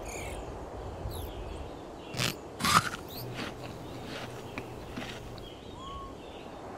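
Cartoon chewing sound effect of a small creature munching grass: a handful of short crisp bites, the loudest a little under three seconds in, over a steady outdoor ambience.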